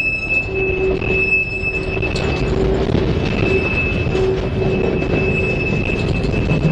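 Freight train cars, covered hoppers among them, rolling past on the rails: a steady low rumble of wheels and rail, with thin squealing tones from the wheels that come and go every second or so.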